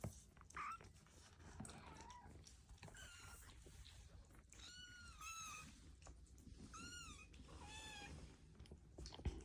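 Kittens mewing: about five short, faint, high-pitched mews, each rising and then falling in pitch. A sharp knock near the end.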